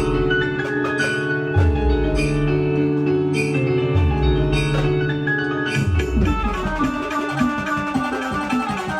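Instrumental band music: held chords over a deep, booming drum hit about every two seconds, changing about six seconds in to a faster, denser beat with quick short notes.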